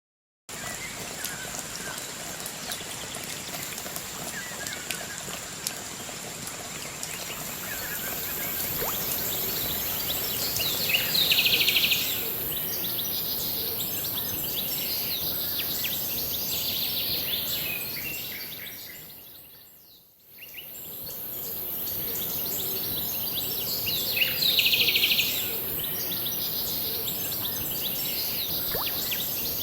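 Forest ambience: a steady wash of falling water with birds chirping, loudest in two bouts about a third of the way in and again near the end, over a high, steady insect drone. The whole soundscape fades down and swells back up about two-thirds of the way through.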